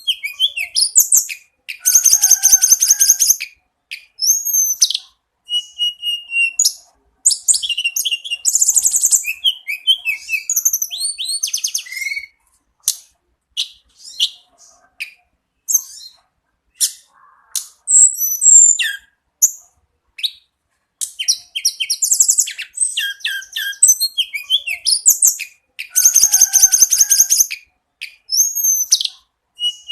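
A tledekan gunung singing: varied high phrases of fast trills, sharp chirps and rising whistles. They come in bursts of a second or two with short gaps between them, some phrases repeating.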